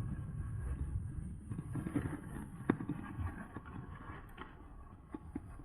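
Riding noise from an electric mountain bike under way: wind rumbling on the microphone and tyre noise, dying down toward the end as the bike slows. There are a few sharp clicks in the second half.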